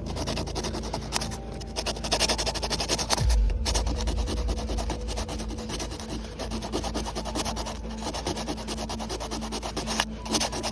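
Sandpaper rubbing back and forth in quick repeated strokes: hand sanding during refinishing, with background music underneath.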